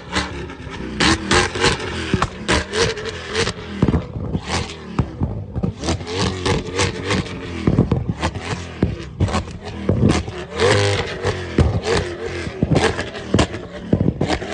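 Straight-piped Corvette C8 V8 revving again and again, the engine note rising and falling, with many sharp pops and bangs from the exhaust flame kit.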